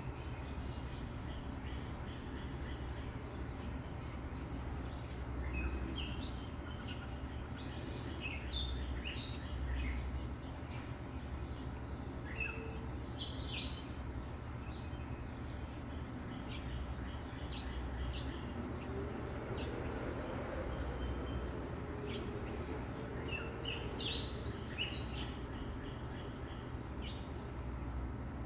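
Small birds chirping and calling in short, scattered notes, over a steady low rumble. A low sound swells and fades away a little past the middle.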